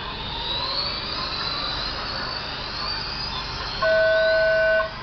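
Radio-controlled race cars' motors whining, their pitch rising and falling as they drive the track. Near the end, a loud, steady electronic beep about a second long: the timing system's race start tone.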